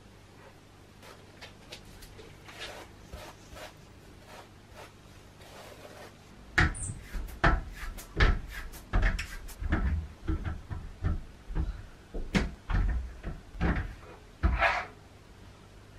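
Household cupboard doors being opened and closed: a few faint clicks, then from about six seconds in a quick run of sharp knocks and thuds, with a brief squeak near the start of the run.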